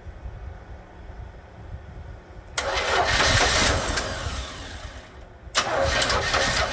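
1959 Ford station wagon engine being cranked on the starter to restart after running out of gas: two loud bursts of cranking about two seconds each, the first about two and a half seconds in and the second about five and a half seconds in, without the engine running on.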